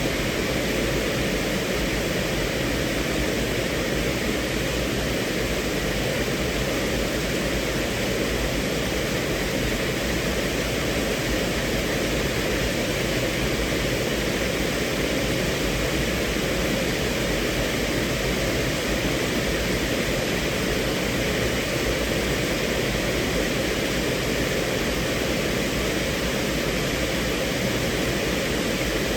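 Steady rain on a car's roof and windows, heard from inside the cabin, an even rushing hiss that does not change.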